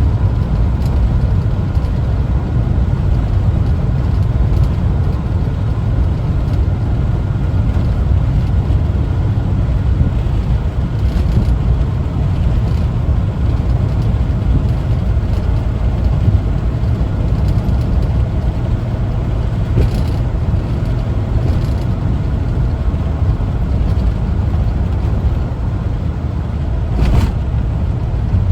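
1974 Volkswagen Westfalia camper van on the move: its air-cooled Type 4 flat-four engine and road noise make a steady low rumble, with a couple of brief clicks in the latter half.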